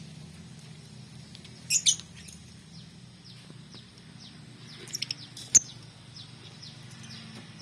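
Songbirds chirping: a stream of faint short downward-sliding chirps throughout, with loud sharp high calls breaking in twice, about two seconds in and again around five seconds in.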